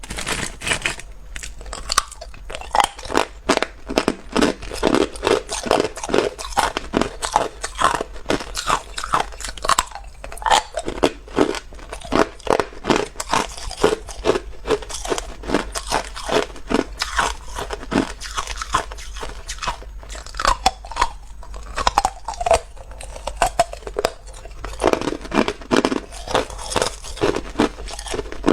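Hard ice cubes being bitten and chewed close to the microphone: a continuous run of sharp crunches, about two or three a second.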